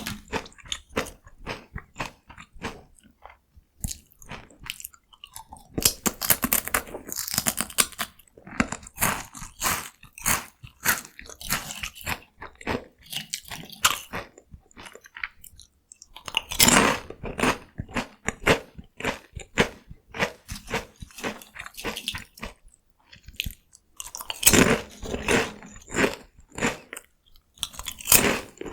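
Close-miked biting and chewing of crunchy cone-shaped corn snacks (Kkokkal Corn), crisp crackling crunches that come in bouts with brief pauses between mouthfuls.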